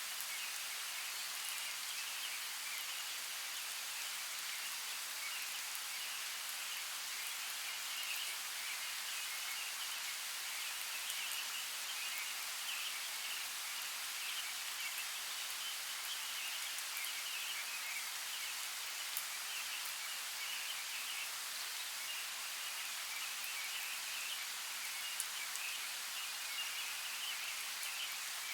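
Steady rain falling, an even hiss with a few faint individual drop ticks.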